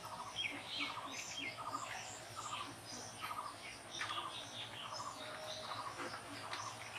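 Small birds chirping: one repeats a short trilled note about every two-thirds of a second, with other, higher chirps scattered over it.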